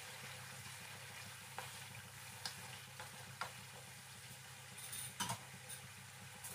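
Squid rings in Cajun sauce sizzling faintly in a pan, stirred with a wooden spatula that clicks lightly against the pan a few times.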